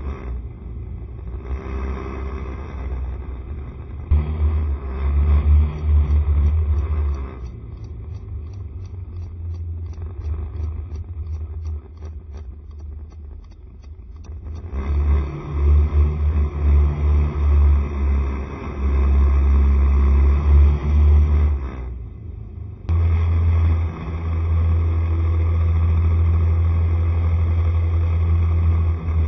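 Riding noise on a Honda SCR110 scooter: a heavy low rumble of engine, road and wind that rises and falls, easing for a stretch in the middle and dipping briefly later on.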